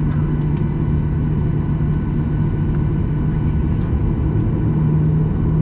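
Cabin noise of a Boeing 737-800 taxiing: a steady low rumble from the CFM56 engines at taxi power, with a constant hum.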